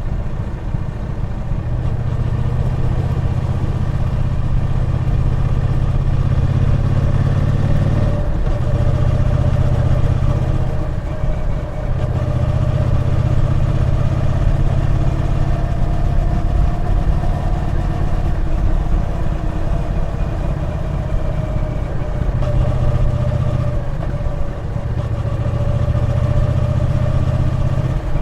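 Triumph Bonneville T120's 1200 cc parallel-twin engine running steadily while the motorcycle is ridden, its pitch drifting up and down. The engine note dips briefly three times, about eight, twelve and twenty-four seconds in.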